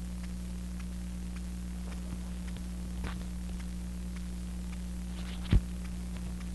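Steady electrical hum with a few faint clicks, and one sharp low thump about five and a half seconds in.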